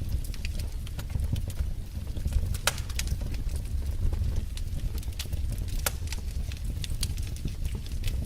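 Wood fire in a fireplace crackling: a steady low rumble of the flames with frequent sharp, irregular pops and snaps.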